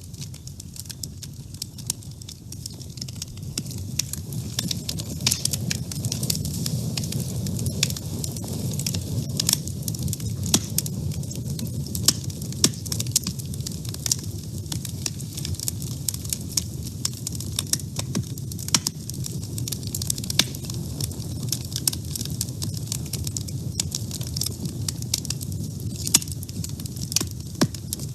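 Wood fire in a woodstove crackling, with frequent irregular sharp pops over a steady low rumble of the flames.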